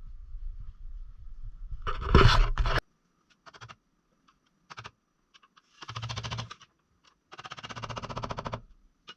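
Hand tools working on the tractor's bolts: a loud metallic clatter about two seconds in, then two bursts of fast ratchet-wrench clicking.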